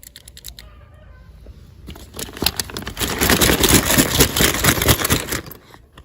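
Crinkling and rustling of toy packaging being handled, with light clicks at first, then a dense crackling stretch of about three and a half seconds in the middle.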